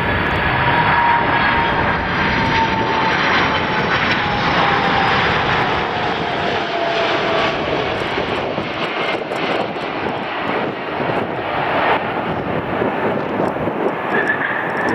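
Jet airliner passing low overhead on its landing approach: a loud engine rush with a whine that slowly falls in pitch as it goes by.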